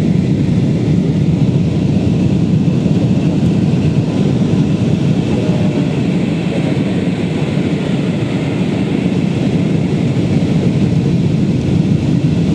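Steady, loud cabin noise of an airliner in flight: jet engine noise and rushing airflow heard from inside the passenger cabin.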